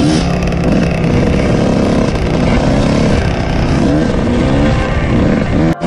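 Dirt bike engine heard from on board the bike, revving up and down as it rides a sandy trail. The sound cuts out for an instant near the end.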